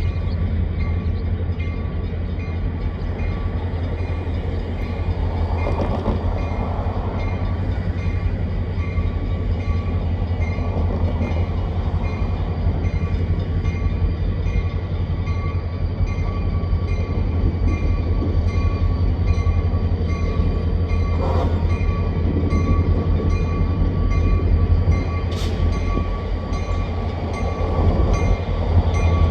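Diesel freight train moving slowly: a steady low rumble with a faint, regular high ticking, and a couple of short sharp knocks in the second half.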